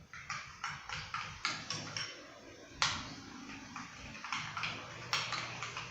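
Slime glue base being stirred with paint in a container: irregular soft clicks and taps, two or three a second, with sharper ones about three and five seconds in.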